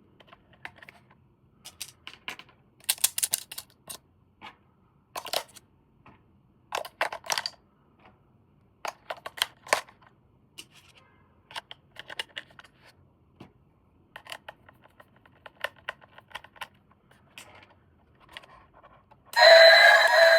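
Plastic toy parts and packaging being handled: scattered clicks, taps and crinkles in quick clusters. Near the end a loud electronic sound with several steady tones starts suddenly.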